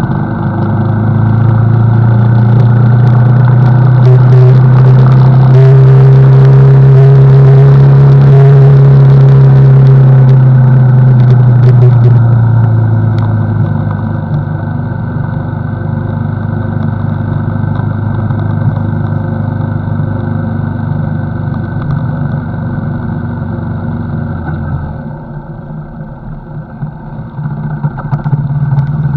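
CFMoto NK motorcycle engine running on the road, held at a steady pull for several seconds. It then eases off to a lower, quieter note about halfway through and drops further near the end.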